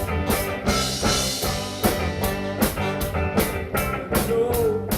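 Live band playing an upbeat song in an instrumental stretch between sung lines, with a drum kit keeping a steady beat under guitar.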